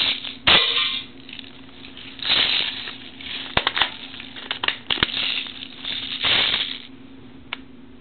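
Pulse M74 DP airsoft gun firing single shots in semi-automatic mode, with BBs striking a metal can: a handful of sharp clicks and clinks spread over several seconds, the loudest about half a second in with a brief metallic ring.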